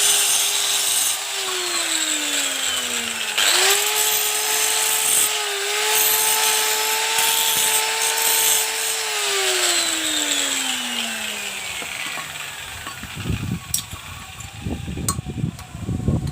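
Handheld electric power tool running with a steady high whine that winds down about a second in. It is switched on again about three seconds in, runs for about five seconds, then winds down. Near the end come handling knocks and a few sharp clicks.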